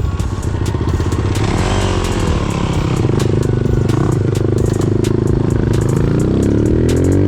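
Off-road vehicle engine running hard, with scattered clicking and rattling; its pitch climbs as it revs up near the end.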